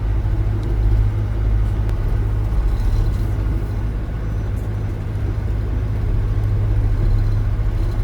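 Narrowboat's diesel engine running steadily under way, a constant low drone.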